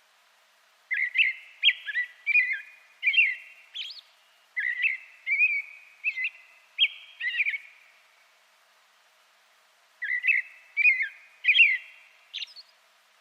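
A songbird calling in short, clear whistled notes that glide in pitch. A long run of notes is followed by a pause of about two seconds, then a shorter run.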